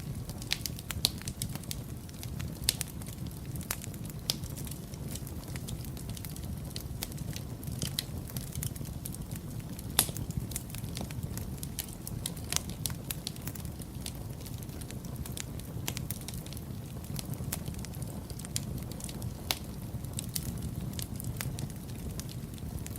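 Wood fire burning in a fireplace: a steady low rumble of the flames with sharp, irregular pops and crackles, a few of them louder, the loudest about ten seconds in.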